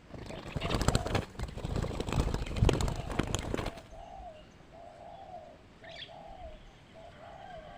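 Loud flapping and scuffling for the first three or four seconds. Then a zebra dove coos in a series of short, rolling, arched notes.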